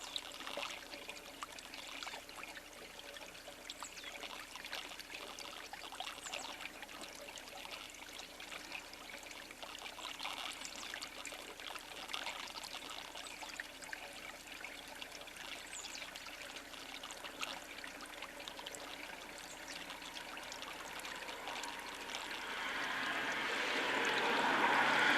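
A steady trickling, water-like noise with many faint ticks and a few faint short high chirps. It swells louder near the end.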